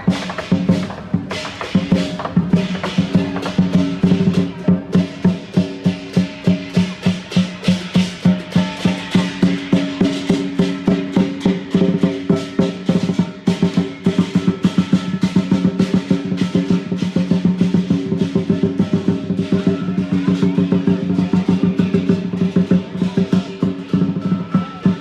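Lion dance percussion: a big drum with clashing cymbals and gong, playing a fast steady beat of about four strikes a second over a continuous metallic ring.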